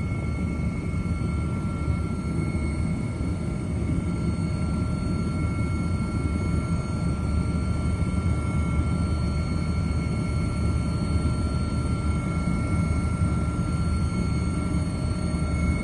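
A steady low rumble, with several faint steady high-pitched tones above it.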